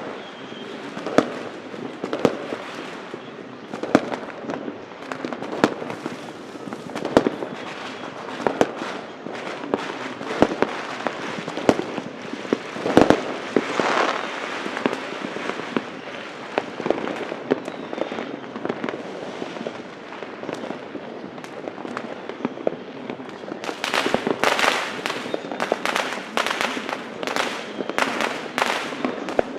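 Fireworks and firecrackers going off: many scattered sharp bangs over a steady crackling haze, the loudest about halfway through, and a quick, dense run of sharp bangs near the end.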